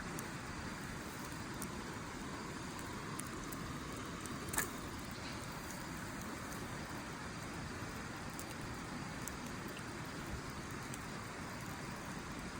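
Wood fire burning in a Snow Peak fire pit, with a steady rushing background, a few faint crackles, and one sharper pop about four and a half seconds in.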